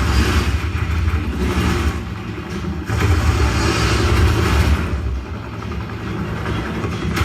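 Car engine sound effects from a 5.1 surround-sound test track, revving and sweeping past in two swells over heavy bass. They are played back through a Sony HT-IV300 home theater speaker system.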